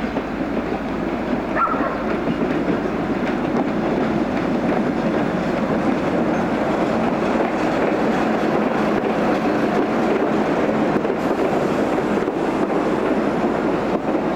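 Train running, a steady rumbling noise that builds slightly over the first few seconds and then holds.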